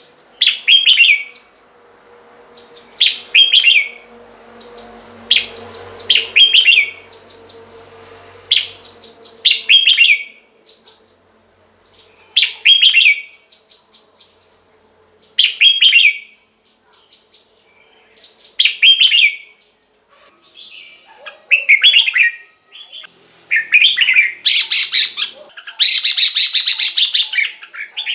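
Red-whiskered bulbul singing its short, warbling song phrase over and over, about every three seconds. In the last few seconds the phrases come faster and run together into a busier stretch of song. A faint steady high tone sits under the singing.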